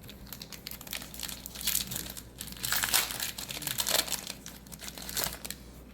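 Plastic wrapper of a Magic: The Gathering booster pack crinkling in irregular clusters as it is handled and opened.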